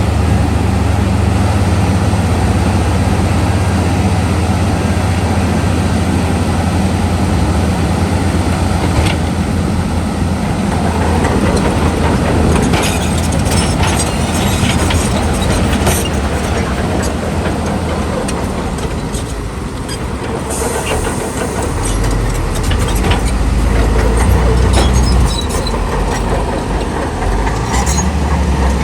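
Heavy diesel earthmoving machinery running with a steady low engine drone. From about nine seconds in, scattered metallic clanks and rattles sound over it.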